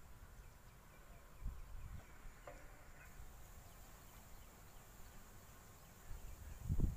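Faint outdoor background of small bird chirps and insects over a low rumble, with a soft thump about one and a half seconds in.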